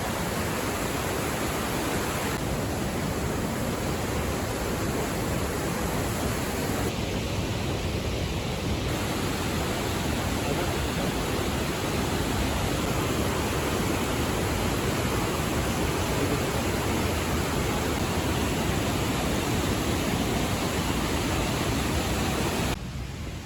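Waterfall rushing: a loud, steady roar of falling water, changing slightly in tone where shots are cut together.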